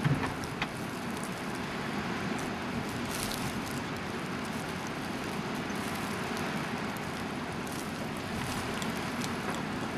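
Steady rushing of blizzard wind, with a few small knocks in the first second.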